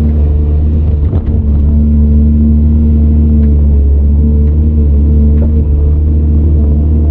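CAT 395 excavator's diesel engine running steadily under working load, heard from inside the cab, a deep rumble with a steady hum. A short clunk and dip in the engine note about a second in.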